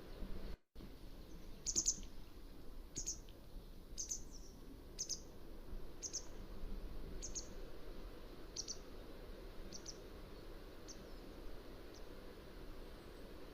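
Mountain wagtail calling: a series of short, sharp, high notes about one a second, growing fainter toward the end, over a steady background hiss. A brief cut to silence comes just before the calls begin.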